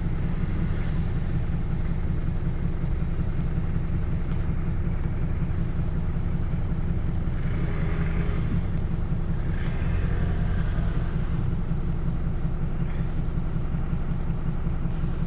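City bus running, its engine and drivetrain a steady low drone heard from inside the cabin, with a couple of brief noisier stretches about halfway through.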